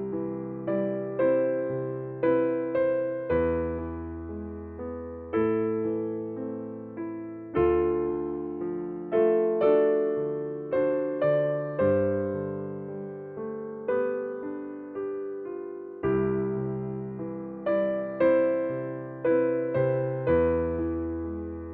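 Slow, gentle piano music: struck chords and single notes that ring and fade, with a new note or chord about every second over low bass notes.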